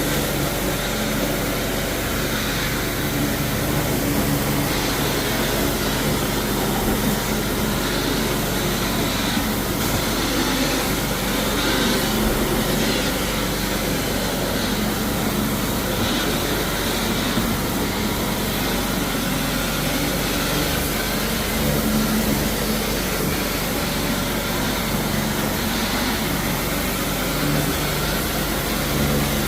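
Floor-cleaning machinery working on a travertine tile floor: a steady, loud noise with a low motor hum, unbroken throughout.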